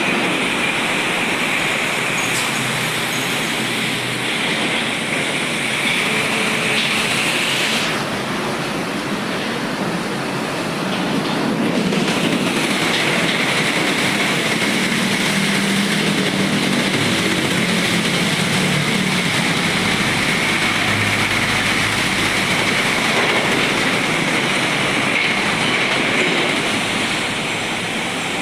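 Heavy container trucks passing on a rain-wet road: a steady hiss of tyres on wet asphalt over a low engine rumble, which briefly eases about eight to twelve seconds in.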